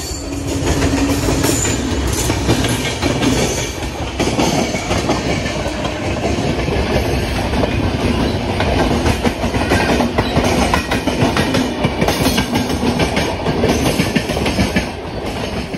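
Express train running at speed: a loud steady rush with rapid clatter of wheels over rail joints, heard through the open window of the coach while it passes close beside another train's coaches.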